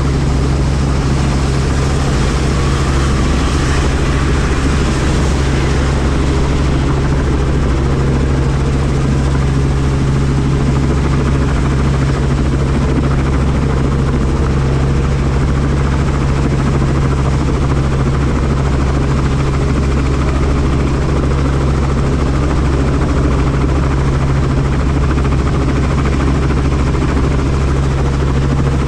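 Helicopter in steady flight, heard from inside the cabin: a constant low rotor and engine hum with rushing air noise over it, the doors off.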